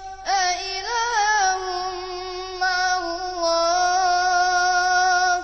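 A young reciter chanting the Quran in melodic tajweed style, stretching a phrase into one long high-pitched note. It wavers through an ornament in the first second or so, then holds steady.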